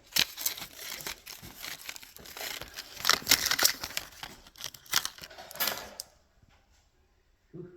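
Close rustling and crackling handling noise, irregular and sharp, lasting about six seconds and then stopping.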